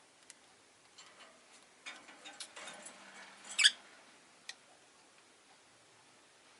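Rose-faced lovebirds moving about their cage: a run of small clicks, taps and scratches over a couple of seconds, ending in one sharper, louder click about three and a half seconds in, and a last single tick a second later.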